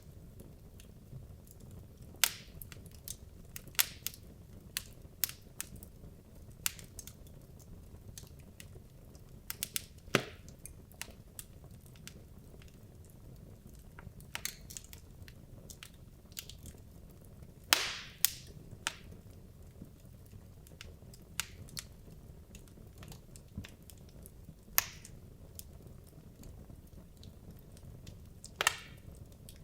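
Wood logs burning in a fireplace, crackling with irregular sharp pops and snaps over a faint low hiss of the flames.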